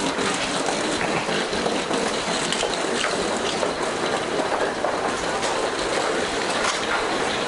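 Keihan electric train running on the rails: a steady rumble with a few faint clicks from the wheels.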